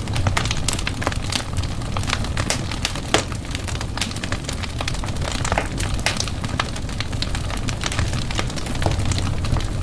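Wood fire crackling steadily in a fireplace: many irregular sharp pops and snaps over a low steady rumble of the flames.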